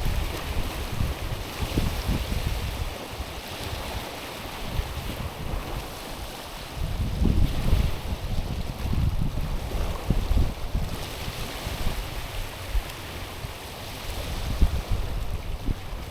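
Small waves lapping and washing over a stony, pebbly shore, swelling and easing in turn. Wind rumbles on the microphone.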